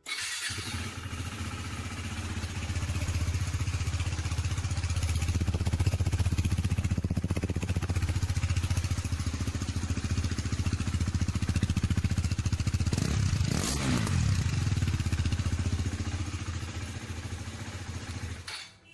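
KTM Duke 390's single-cylinder engine running with the exhaust removed, a loud, open, rapidly pulsing idle. About two-thirds of the way through, its pitch briefly dips and climbs back.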